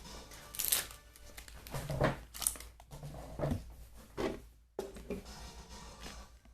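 Irregular rustling and crinkling handling noises close to the microphone, in a series of uneven bursts.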